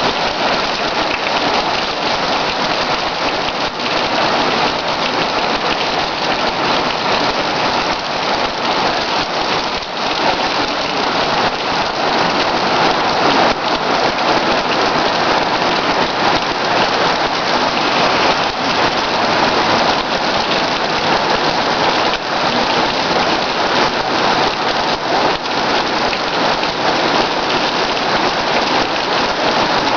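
Heavy rain pouring down in a steady, dense hiss of drops hitting surfaces.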